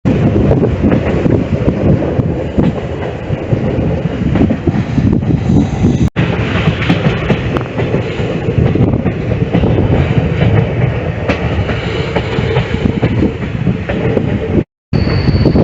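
Passenger train running along the track: a steady rumble with clattering of the wheels over the rails.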